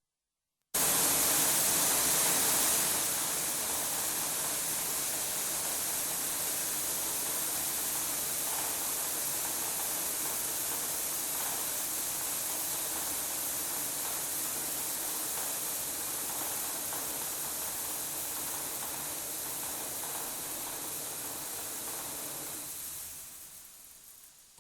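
Animal feed mill machinery running: a steady mechanical hiss with a low hum under it. It starts abruptly about a second in, is a little louder for the first two seconds, and fades out near the end.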